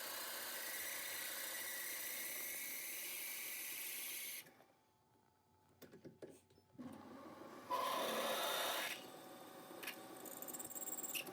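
Small metal lathe running steadily, then shut off suddenly about four seconds in; a few clicks and a short scraping burst follow.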